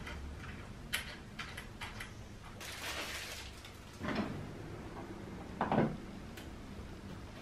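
Household handling sounds: a few light clicks and knocks, a brief rustle about three seconds in, and two dull thumps later on.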